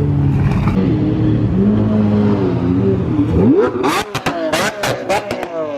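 Car engine running at low revs with the pitch wavering, then revved hard about three seconds in, followed by a rapid series of sharp cracks as the revs fall away.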